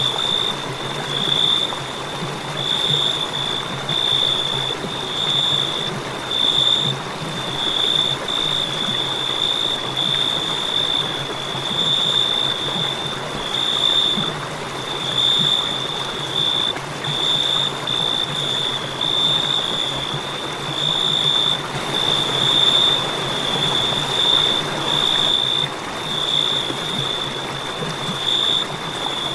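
Crickets chirping in a steady run of high, short trills about once a second, over a constant hiss.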